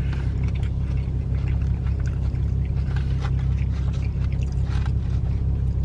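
Steady low rumble inside a parked car's cabin, with faint scattered clicks and rustles from eating a salad.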